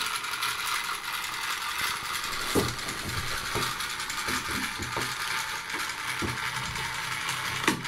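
Clockwork motor of a Bassett-Lowke tin toy cargo ship whirring with a fast ratchet-like clicking of its gears, with a few knocks, the loudest about two and a half seconds in and near the end.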